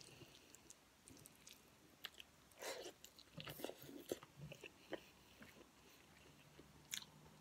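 Faint chewing of a hand-fed mouthful of rice and kare-kare, heard as a scatter of short soft mouth noises between about two and five seconds in, with one more near the end.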